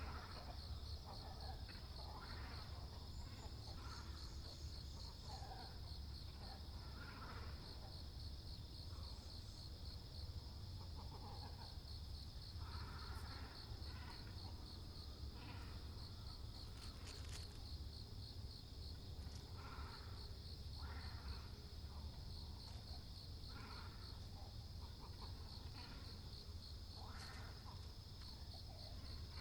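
Great cormorants and herons at a pond giving short, harsh calls every second or two, over a steady, rapidly pulsing insect trill.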